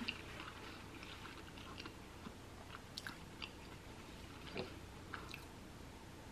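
Faint close-up chewing of a toasted breakfast bagel sandwich: soft, scattered mouth clicks and crackles.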